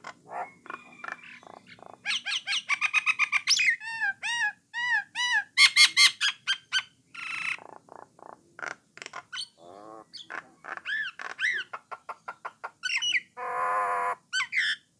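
Jalak Nias (Nias myna), also called jalak coklat, singing a long varied song. It runs through fast trills, series of repeated arched whistles and harsh rasping notes, with a buzzy harsh burst near the end.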